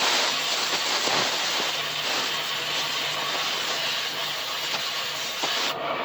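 Loud, steady hiss of gas or air released under pressure, which cuts off abruptly near the end.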